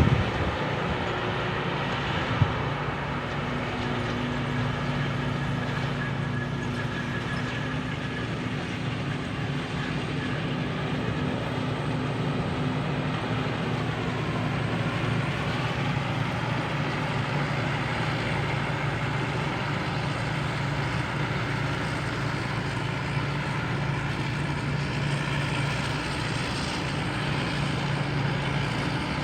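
Rice combine harvester's Hino diesel engine running steadily under load while harvesting, a constant drone with the threshing machinery whirring over it.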